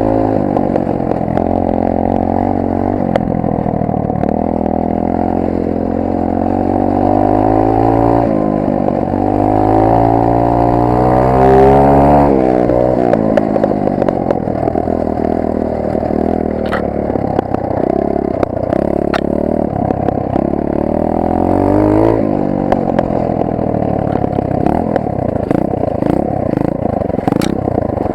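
Rampage 125 cc pit bike's single-cylinder four-stroke engine heard from an onboard camera, revving up and down with the throttle, with a long climb in revs around the middle that drops off sharply. In the second half the revs rise and fall in short bursts, mixed with clattering knocks and rattles from the bike over rough ground.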